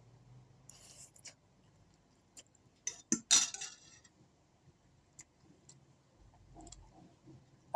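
Eating sounds: a spoon or fork clicking and scraping against a plate of noodles and rice, in scattered light clicks with a louder, noisier cluster about three seconds in.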